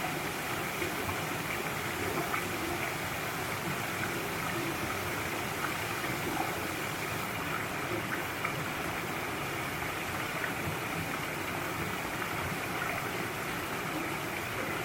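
Mountain stream rushing and splashing over rocks in a steady wash of water, with small splashes flecking through it.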